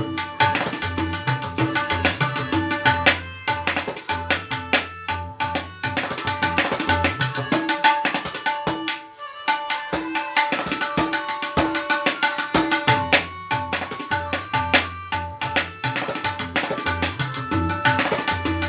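Tabla solo in teen taal: rapid, dense strokes on the dayan with resonant bass strokes on the bayan, briefly thinning out about halfway through.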